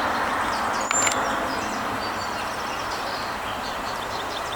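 Steady outdoor background noise with faint, short, high bird chirps scattered through it, and a single click about a second in.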